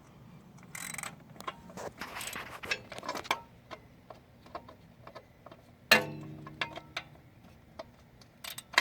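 Hand tools on an engine: a wrench turning a valve-cover bolt, with rasping and sharp metal clicks, and a loud clank with a brief ring about six seconds in. The bolt is turning tight when it shouldn't, which the mechanic takes as a bad sign.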